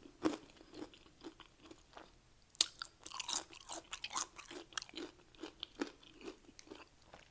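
Close-up crunching and chewing of Doritos nacho chips: a run of sharp crunches about two and a half seconds in, then slower, spaced crunches as the chewing goes on.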